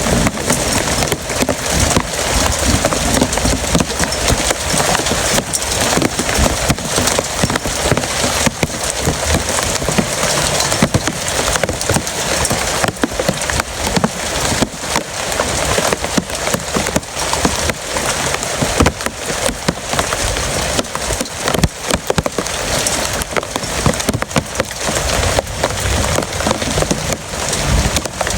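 Heavy rain pouring steadily, a dense hiss of countless drops striking a hard surface close by.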